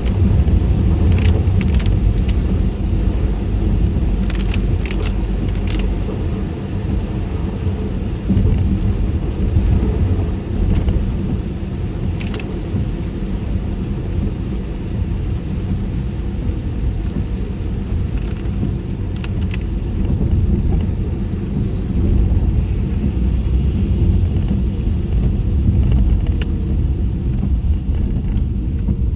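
Inside a closed car driving on wet roads in the rain: a steady low rumble of road and tyre noise, with a scattering of short sharp ticks now and then.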